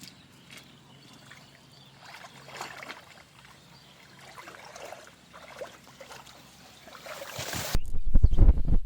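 Water splashing and trickling in small scattered bursts, then a rushing noise that builds near the end, then a loud low rumble in the last second.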